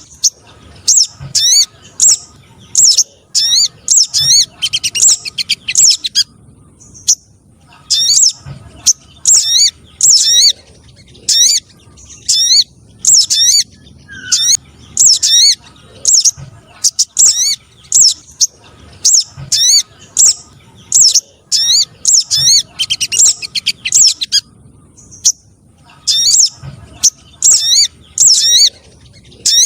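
Bird-lure playback of streaked spiderhunter calls mixed with other small birds: sharp, high chipping calls repeating one or two a second, broken now and then by quick trilled runs and short pauses.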